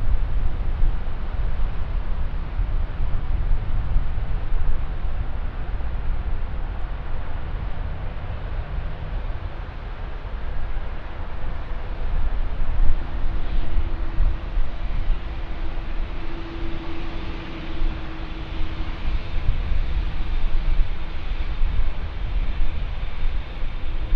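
Jet airliner engines rumbling steadily. A steady tone comes in about halfway through, and a higher whine builds toward the end.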